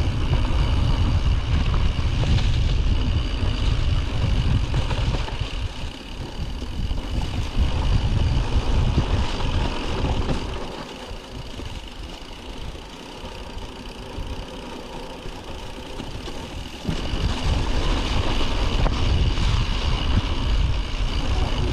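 Wind buffeting an action camera's microphone as a mountain bike is ridden on a snowy trail, a loud low rumble mixed with riding noise. It eases from about ten seconds in and picks up again at about seventeen seconds.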